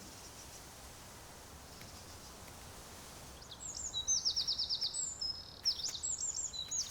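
Little ringed plovers calling: high, quick piping notes and a rapid trill that start about halfway through, after a faint steady hiss.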